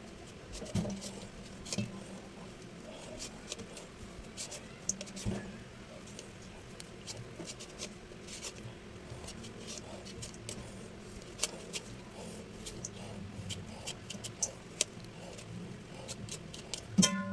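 Scattered light clicks and knocks of kitchen utensils and cookware being handled, over a low steady hum.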